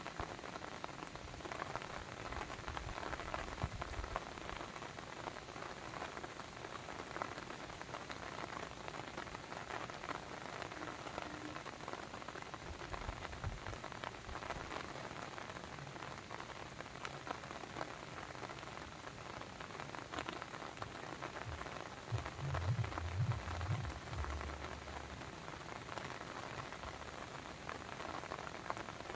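Steady patter and hiss of falling or running water, dense with tiny droplet ticks. A low rumble swells for a few seconds about 22 seconds in.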